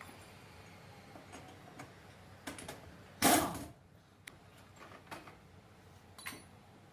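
Motorcycle repair work: scattered light clicks and taps of tools and parts, with one loud, sharp knock a little over three seconds in that rings off briefly.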